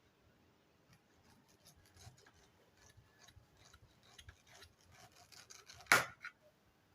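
Knife cutting through a pineapple, a run of small crunching, scraping strokes through the fruit and rind, with one sharp knock about six seconds in.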